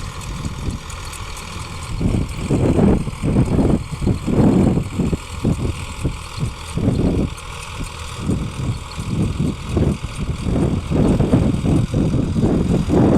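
Sonalika 745 DI tractor's diesel engine running, its sound surging unevenly from about two seconds in.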